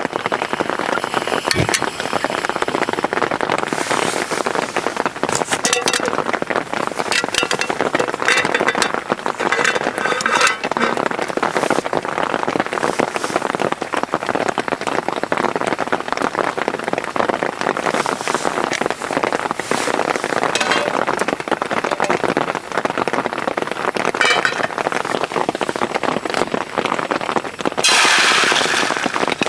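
Steady heavy rain with many drops pattering, and a louder rush of rain near the end.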